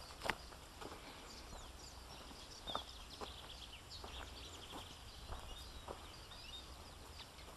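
Small birds singing and chirping, a steady scatter of quick high notes, with a few light footsteps on grass.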